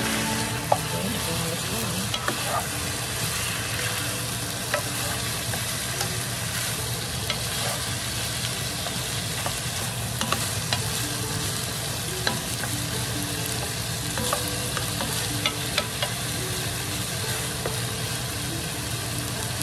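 Chicken thighs and sliced onions sizzling steadily in an oiled nonstick pan while being stirred, a plastic spoon scraping and clicking against the pan now and then. The onions are being sautéed with the browned chicken until translucent.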